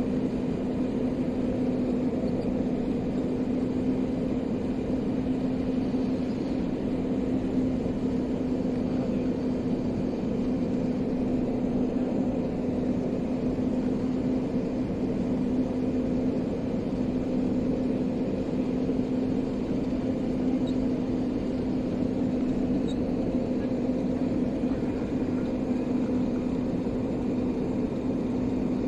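Steady airliner cabin drone from engines and airflow, with a constant low hum over an even rushing noise.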